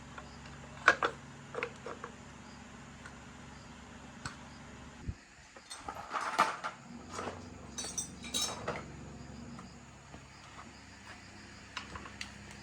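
Metal tools and small parts clinking and knocking as they are handled, a few scattered strikes with a busier cluster midway, over a steady low hum.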